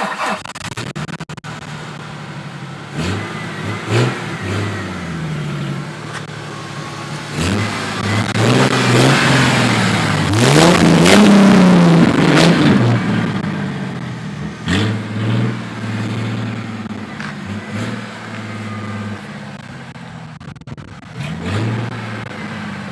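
A 1995 Ford Thunderbird's 4.6-litre V8 runs through a muffler-delete cat-back exhaust with an X-pipe, idling and being revved over and over. There are a few short blips, then a longer rev that builds to its loudest about halfway through, then more blips near the end.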